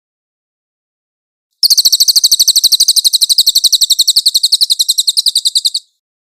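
A songbird's fast, steady rolling trill of sharp high notes, about ten a second, lasting about four seconds. It starts abruptly after a second and a half of silence and cuts off sharply. This is a cage-bird 'masteran' recording of the kind used to train songbirds.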